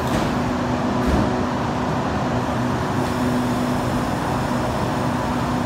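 Steady mechanical drone of a stationary passenger train idling at the platform, with a constant low hum running under it.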